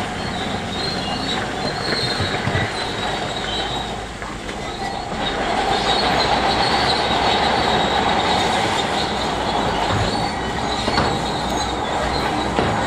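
Crawler bulldozer working, its steel tracks squealing over a dense mechanical din of engine and clanking. It grows louder from about five seconds in.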